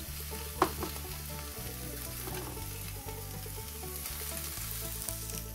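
Duck skin searing in a screaming-hot cast iron skillet, the fat sizzling steadily as it renders. A single sharp knock about half a second in.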